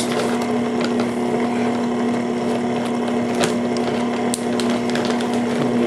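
Electric mixer running at one steady speed through a thick biscuit dough, with a few small clicks along the way.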